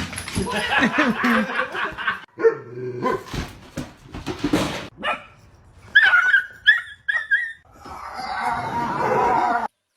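Dogs barking and yelping, including three short high yelps about six seconds in.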